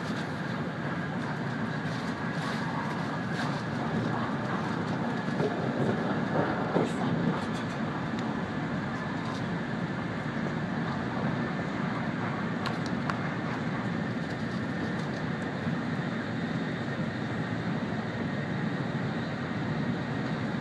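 Sanyo Shinkansen bullet train running at speed, heard from inside the passenger car: a steady rumble and rush of rail and air noise, with a few faint clicks and briefly louder about six seconds in.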